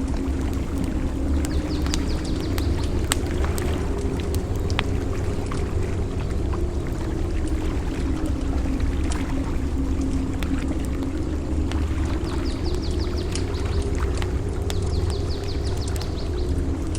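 Campfire crackling with scattered sharp pops, over a steady low rush of water from the shore. Short runs of fast, high ticking come in briefly near the start and twice near the end.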